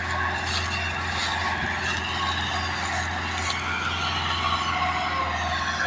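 Big tractor engine running steadily with a deep drone, its pitch rising near the end.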